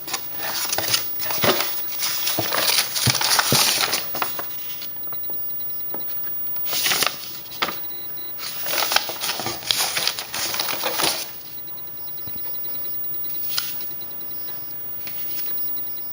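Paper transit schedules being handled, rustling and crinkling in irregular spells, with a single click near the end.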